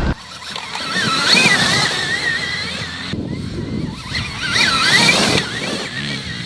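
Stark VARG electric motocross bike's motor whining, rising and falling in pitch twice as the throttle is worked, over rushing wind and track noise. The sound cuts abruptly between short clips.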